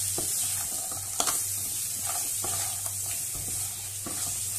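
Crabs frying and sizzling in masala in a pan while a wooden spatula stirs them, with a steady sizzle and irregular scrapes and knocks of the spatula against the pan.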